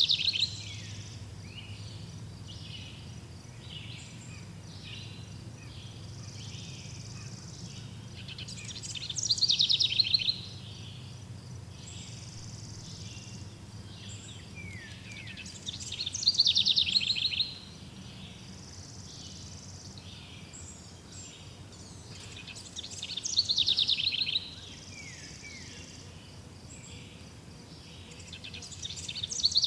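A songbird repeating the same loud song phrase about every seven seconds, each a rapid trill that falls in pitch and lasts about a second and a half, with fainter bird calls between. A steady low rumble runs underneath.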